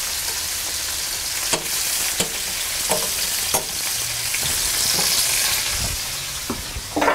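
Butter melting and sizzling in a hot skillet around searing prosciutto-wrapped lamb chops: a steady frying hiss with a few small pops in the first half, swelling slightly about five seconds in.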